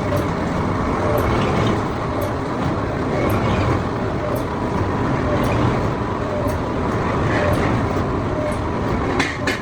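Steady, loud running of workshop machinery with faint ticks about once a second; a run of sharp, rapid knocks, about four a second, starts near the end.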